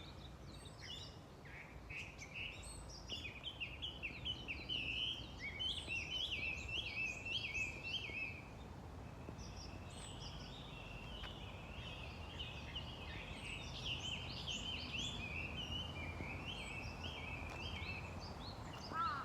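A songbird singing long runs of rapid, repeated whistled notes, which the recordist takes for a Chinese hwamei's song. The song pauses for a few seconds midway and then resumes, over a steady low rumble.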